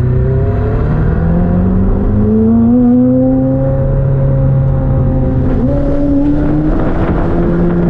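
McLaren 765LT's twin-turbo V8 accelerating hard, heard from inside the cabin: the engine note climbs for the first three seconds or so, holds steady, then steps up again near the end.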